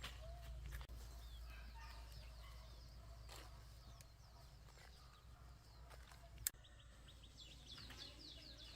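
Faint bird chirps over a steady low hum, with one sharp click about six and a half seconds in.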